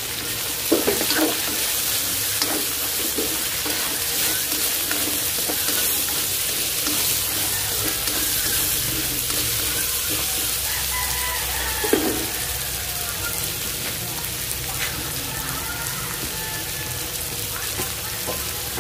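Shrimp sautéing in hot oil in a pan, a steady sizzle, with a couple of knocks from stirring about a second in and near the middle.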